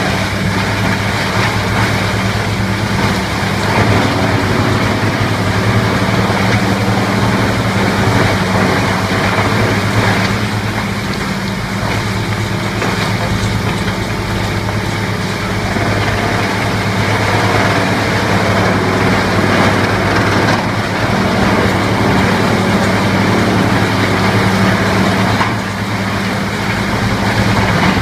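Heavy engine of a large wood chipper or wood-processing machine running steadily, with a dense, even noise over its hum.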